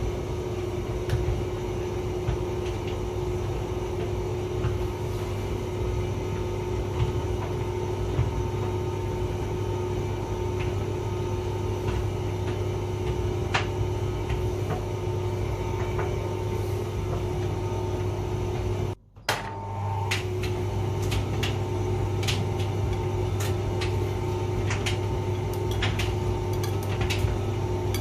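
Hotpoint vented tumble dryer running: a steady motor and fan hum with scattered light clicks and knocks from the drum. The sound cuts out for a split second about two-thirds of the way in, then carries on with more frequent clicks.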